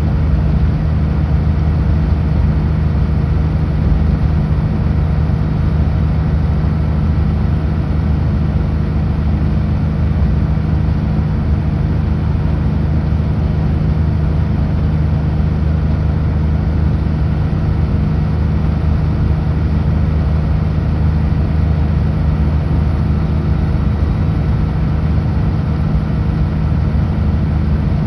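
Kenworth W900L semi truck's diesel engine running steadily at highway cruise, a low, even drone with road noise underneath.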